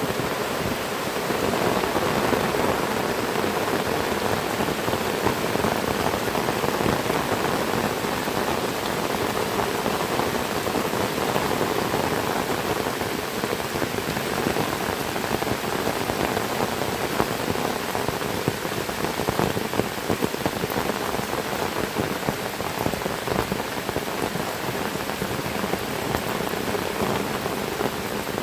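Heavy rain falling steadily, a dense even hiss of countless drops pattering on surfaces.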